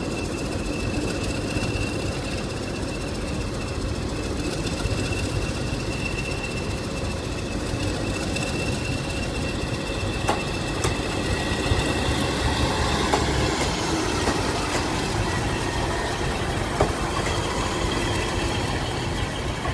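Class 150 Sprinter diesel multiple unit pulling away, its underfloor diesel engines running with a steady low rumble and a thin high whine. From about halfway, sharp clicks come in as the wheels pass over rail joints and pointwork.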